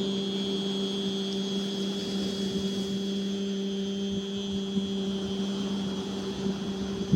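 A voice holding one long, steady 'heee' on the out-breath: the qigong healing sound for the triple warmer.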